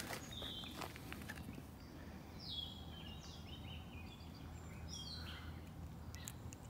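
Small birds chirping in short, repeated calls over faint outdoor background noise, with a couple of light clicks at the start.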